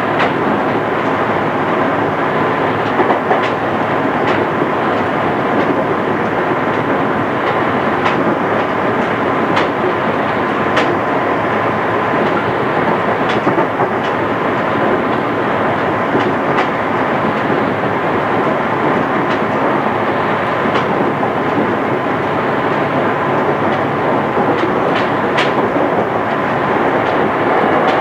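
JR East 211 series electric train running at speed: a steady rumble of wheels on rail, with irregular clicks over rail joints scattered throughout, recorded on cassette tape.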